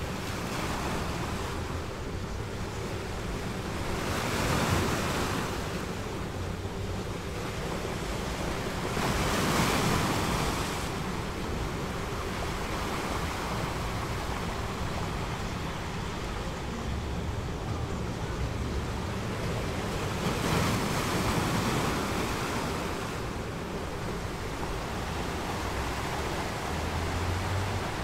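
Recorded ocean waves washing on a shore, a steady surf hiss that swells and ebbs every several seconds, with a faint steady tone underneath.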